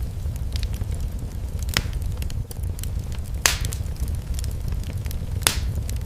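Wood fire crackling in a fireplace over a steady low rumble, with small scattered crackles and three sharper pops about two seconds apart.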